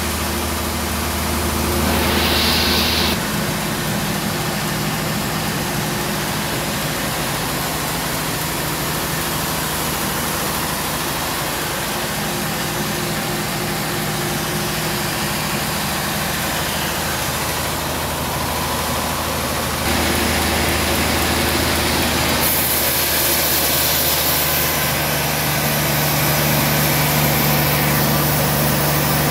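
Sawmill machinery running steadily: a low engine-like hum with hiss that changes abruptly a few times.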